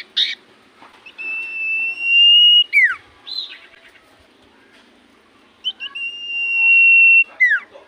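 Common iora (cipoh) singing: twice a long, steady high whistle that ends in a quick downward slur, with a short note between the two phrases.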